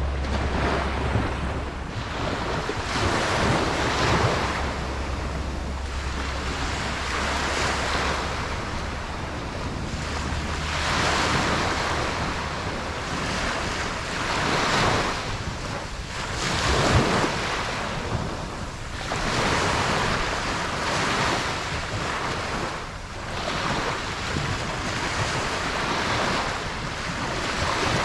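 Ocean waves breaking and washing up on a beach, swelling and easing every few seconds, with wind buffeting the microphone.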